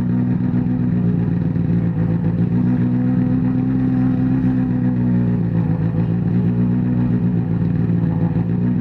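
Rally car's engine idling steadily at close range, held at a constant pitch with no revving.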